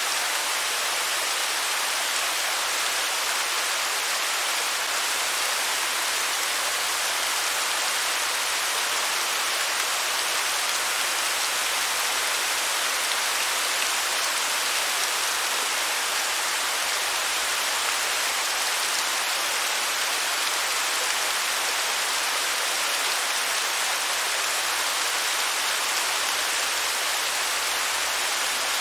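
Waterfall: falling water rushing steadily, an even hiss with little deep rumble.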